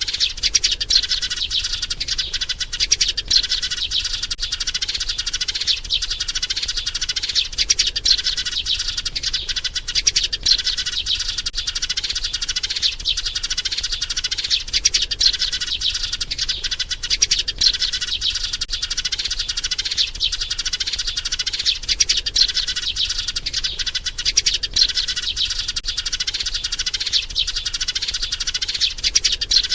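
A sparrow chirping in a fast, dense, unbroken stream of calls, the mate-seeking call of a young adult sparrow, used as a trapping lure.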